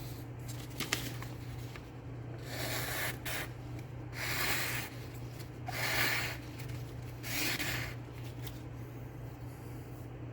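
M390 steel knife edge being stroked across a strop, four swishing passes about a second and a half apart: a quick maintenance strop of an edge dulled by cutting tests.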